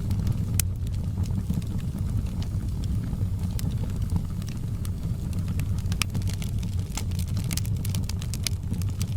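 Wood fire in a fireplace crackling, with irregular sharp pops and snaps over a steady low rumble of the burning fire; the pops come thicker about two-thirds of the way through.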